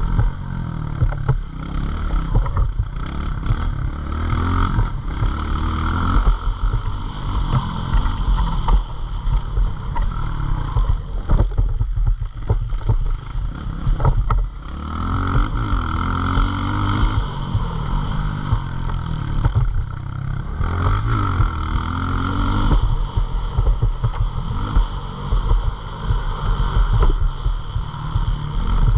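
CRA Skyview pit bike's small single-cylinder engine running under load as the bike is ridden, its pitch rising and falling repeatedly with the throttle.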